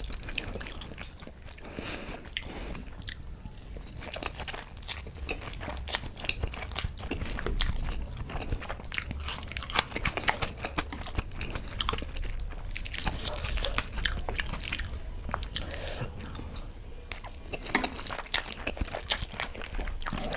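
A person chewing and biting food close to the microphone: a long run of small wet mouth clicks and crunches.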